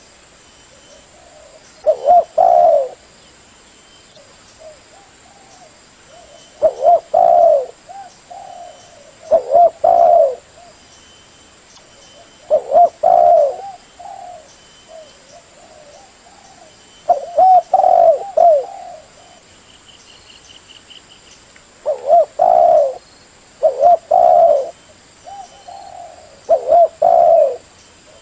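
Spotted dove cooing: a short phrase of a few low coos repeated every two to three seconds, the advertising call used as a lure call to attract wild spotted doves.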